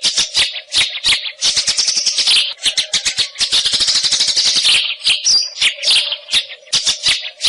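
White-rumped shama singing a fast, almost unbroken run of rapid chattering and rattling notes with short rising and falling phrases. A faint steady hum sits under the song.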